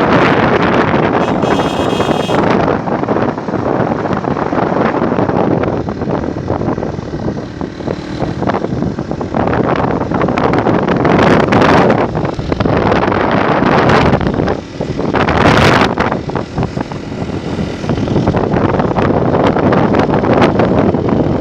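Wind noise from riding a moving motorcycle, rushing on the microphone over the road and engine noise, with louder gusts in the second half. A brief high-pitched tone sounds about two seconds in.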